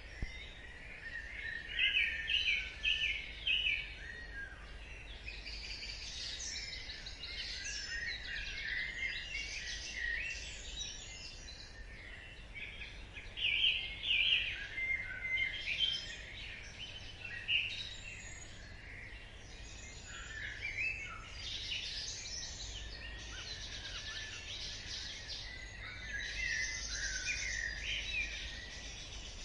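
Dawn chorus: many songbirds singing and chirping at once in overlapping, high-pitched phrases, with a low steady rumble underneath.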